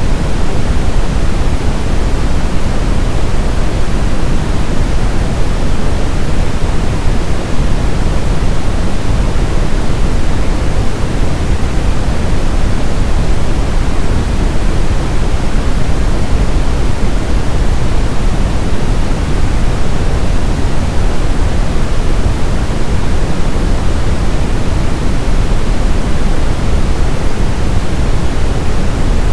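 Brown noise (Brownian or red noise): a steady, loud hiss weighted toward the low end, like a deep rumble, with no changes or events.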